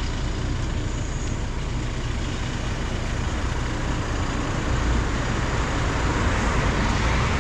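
Steady road noise from a motor vehicle on the move: low engine rumble under a broad rush of tyre and wind noise, swelling a little louder near the end.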